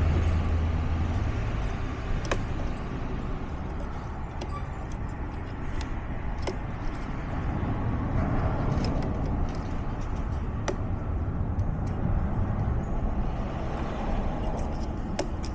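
A steady low vehicle rumble, with a few sharp metallic clicks scattered through from a door lock being worked open.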